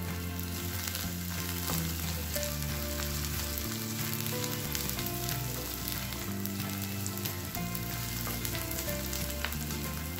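Chopped onions and green chillies sizzling in hot oil in a nonstick pan while being stirred with a spatula, with scattered light scraping clicks from the spatula against the pan.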